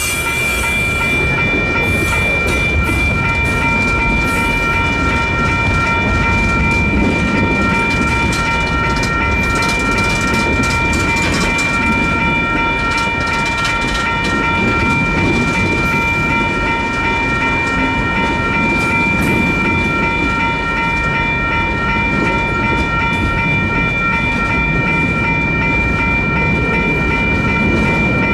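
Freight train cars passing over a grade crossing, with a steady low sound and many wheel clacks on the rails. The crossing's electronic bells ring steadily throughout.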